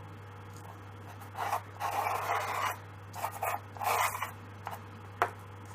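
Dry pastel stick rubbed across paper in four or five short strokes, with a single sharp tick about five seconds in.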